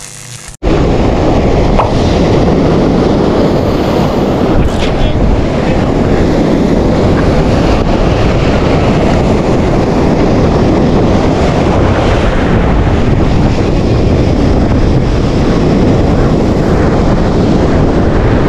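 Wind buffeting the microphone over the wash of sea waves, loud and steady.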